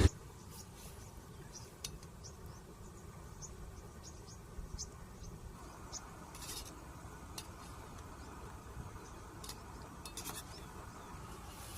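Quiet outdoor ambience: a faint steady low rumble with scattered short, high chirps, likely insects, and a few soft clicks.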